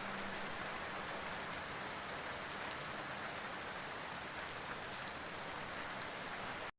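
Steady rain falling, an even hiss of drops that stops abruptly near the end.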